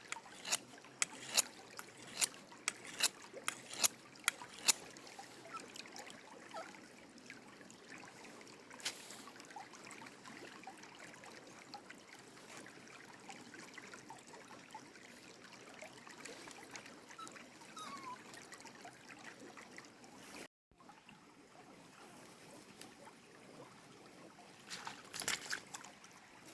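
Creek water trickling steadily, with a quick run of sharp clicks or knocks over the first few seconds. The sound drops out for a moment about twenty seconds in.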